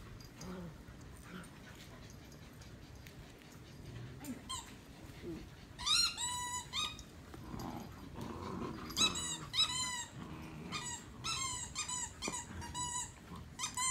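Dogs at play: low growling at first, then from about six seconds in a run of short, high-pitched yips and whines.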